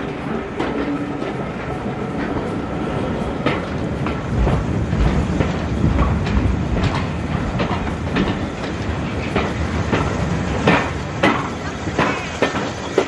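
Railway carriage of a steam-hauled train running along the track: a steady rumble with irregular sharp clicks of the wheels over rail joints, several loud ones near the end. The rumble grows deeper and heavier from about four to seven seconds in, as the train crosses a swing bridge.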